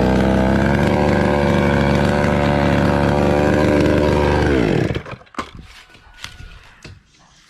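Chainsaw running steadily at high revs, probably cutting anjili wood. A little before five seconds in, its pitch falls away and it goes quiet. A few sharp clicks or knocks follow.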